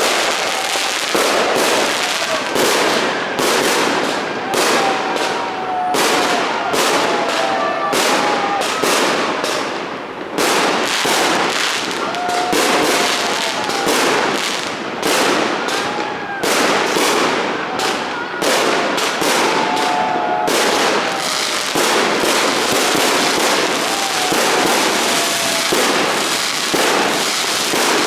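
A multi-shot fireworks salute firing continuously: a rapid, unbroken string of bangs and crackling bursts with a short lull about ten seconds in.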